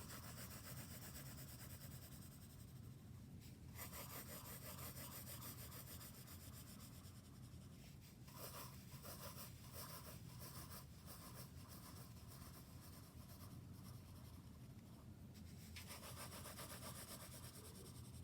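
A drawing tool scratching across paper in fast looping strokes as spiral ellipses are drawn. It comes in long stretches of continuous rubbing, with a run of short, separate strokes near the middle, over a steady low hum.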